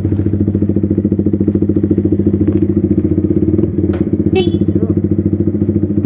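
Yamaha R15 V3's single-cylinder engine idling steadily through an Arrow aftermarket racing exhaust, an even rapid pulsing. A short click about four seconds in.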